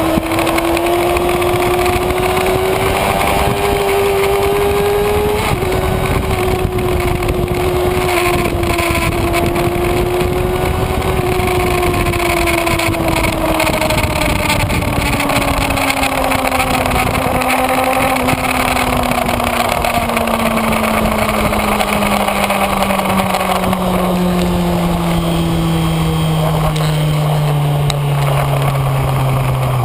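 Kawasaki Ninja ZX-6R's inline-four engine running hard at high revs, heard onboard over wind rush. The pitch climbs for the first few seconds, dips briefly about five seconds in, then falls steadily through the second half as the bike slows.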